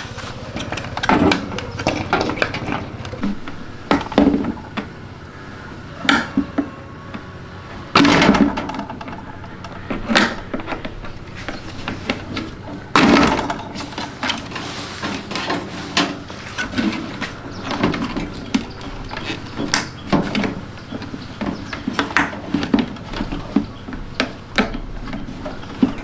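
Irregular clicks, taps and knocks of hard parts being handled and set down, with louder knocks about eight and thirteen seconds in.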